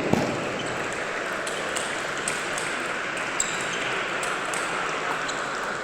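Table tennis ball hits: sharp, irregular clicks of the celluloid ball off bats and table over a steady hiss of hall noise, after a dull thump at the start.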